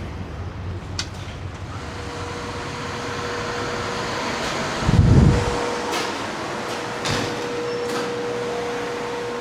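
Steady fan-like ventilation hum with a thin steady tone. A short, loud low rumble comes about halfway through, and there are several sharp clicks.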